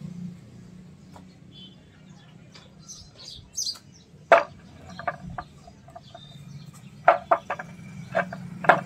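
Birds chirping high and briefly about three seconds in, then clusters of short, sharp clucks from chickens.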